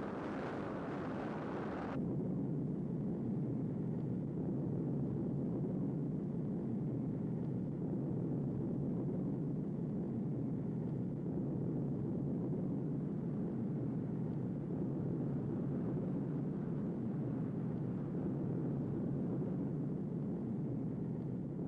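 Space Shuttle Challenger's rocket launch rumble, the solid rocket boosters and main engines heard from afar during ascent: a steady low rumble, its higher hiss dropping away about two seconds in.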